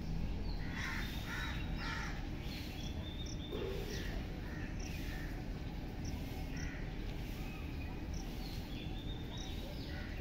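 Birds calling: harsh calls in short runs, a cluster of three about a second in and more later, with thin high chirps between, over a steady low background rumble.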